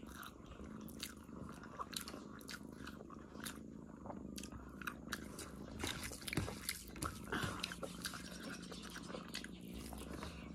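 Close-up sounds of a person eating rice and curry with her fingers: chewing and wet lip smacks in many small, irregular clicks, over a faint steady low hum.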